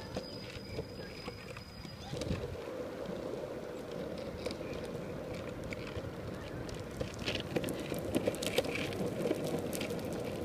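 Longboard wheels rolling over pavement, a steady rumble that starts about two seconds in, with small clicks and knocks from joints and grit in the surface, busier near the end.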